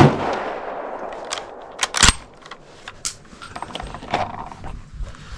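Single rifle shot from an M95M straight-pull Mannlicher rifle in 8mm Mauser, its echo dying away over about a second. Then come sharp metallic clacks of the rifle's action being handled, the loudest about two seconds in.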